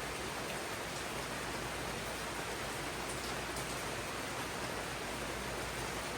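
Steady rain falling on jungle foliage, an even hiss with a few faint individual drop ticks.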